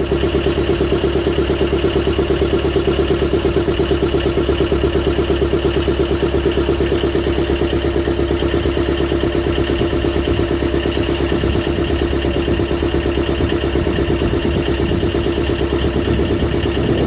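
Engine running steadily at close range with a fast, even pulse, starting abruptly.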